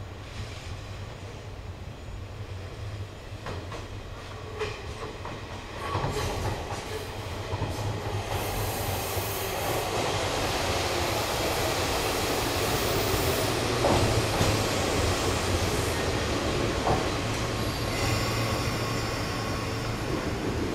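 Enshu Railway 30-series electric train, an old type with nose-suspended traction motors, moving through the station: a steady low hum under wheel-on-rail noise with a few clicks and some wheel squeal. The noise swells sharply about six seconds in and stays loud.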